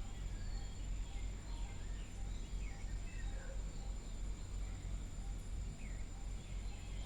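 Faint background ambience: a steady low hum with a thin, constant high whine, and scattered faint short chirps like distant birds or insects.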